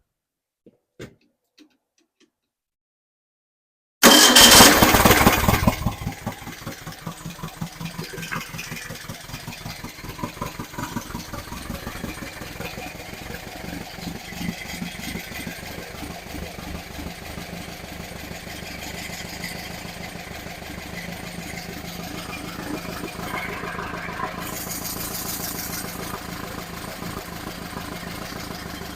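A few light clicks, then an engine starts abruptly about four seconds in, running loud and fast for a couple of seconds before dropping back to a steady idle. The engine has a freshly installed camshaft that is being run in.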